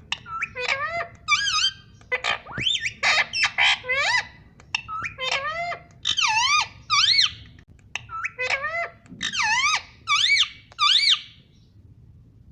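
Pet parrot squawking and whistling: a rapid series of short, shrill calls, each sweeping sharply up and down in pitch, with a stretch of harsher chatter a couple of seconds in.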